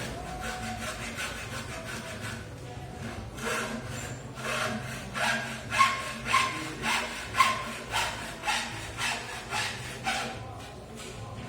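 Rhythmic scraping strokes, about two a second, building up a few seconds in and easing off near the end.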